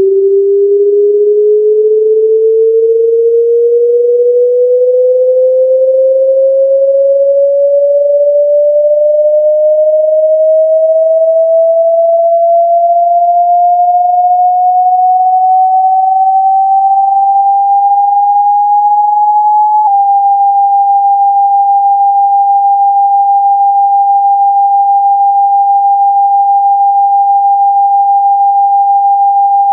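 Synthetic speaker-cleaning tone, a single pure tone. For about twenty seconds it glides slowly upward in pitch, then it switches with a small click to a steady tone held at about 800 Hz.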